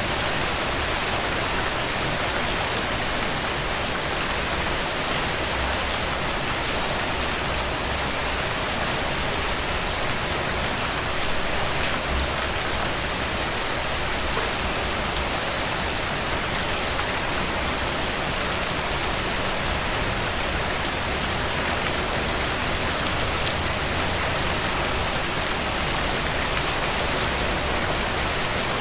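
Steady rain pattering on a tent, an even hiss scattered with small sharp drop ticks.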